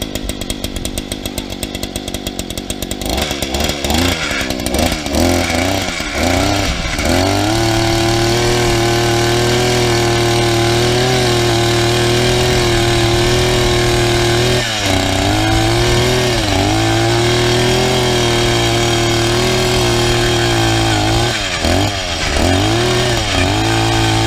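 Gas post-hole auger's small engine running, revved up about three seconds in and held at high speed, its pitch sagging briefly a few times as the bit bores into the ground.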